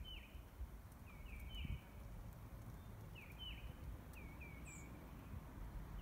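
A songbird singing short phrases of two or three down-slurred whistled notes, repeated about every second and a half, over a low rumble.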